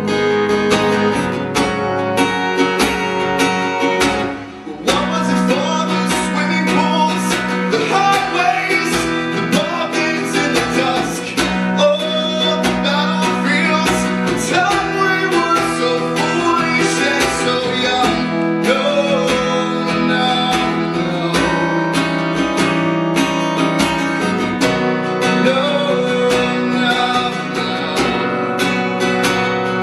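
Live acoustic guitar strumming an instrumental passage of a song, dropping back briefly about four seconds in before the playing comes in fuller again.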